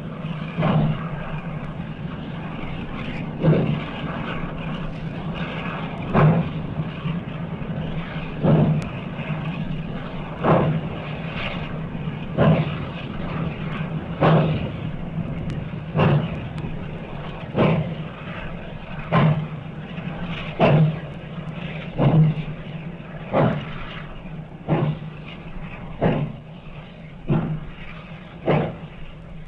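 Steam locomotive exhaust chuffing, slow, separate beats that come steadily quicker as the engine picks up speed, over a steady low drone.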